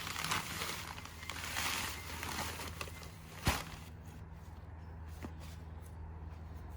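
A heavy bag of ballast being handled, the bag crinkling and the stones shifting, then one thump about three and a half seconds in as it is set down.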